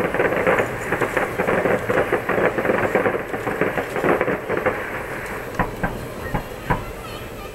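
Aerial fireworks crackling: a dense stream of rapid pops from bursting shells, thinning after about four seconds to a few separate bangs near the end.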